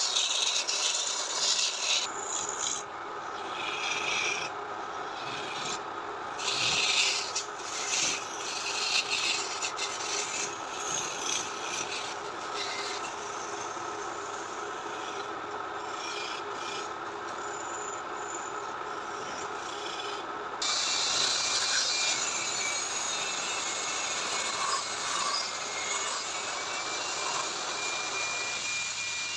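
Wood being worked with an abrasive tool: continuous scraping and rubbing with uneven strokes. About two-thirds of the way through it becomes louder and brighter, with a faint steady whine near the end.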